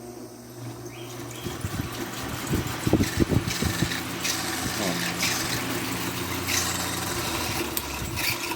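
Arge electric fan switched on, its motor humming as it comes up to speed, with a cluster of clicks about three seconds in. The noise comes from a worn motor bearing, which a bearing replacement cured.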